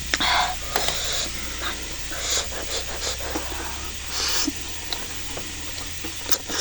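Close-miked eating sounds: wet chewing with many small clicks, and several short bursts of hissing.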